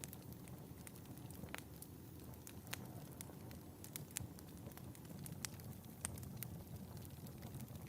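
Wood fire in a fireplace burning, with a steady low rumble of flame and frequent sharp, irregular crackles and pops.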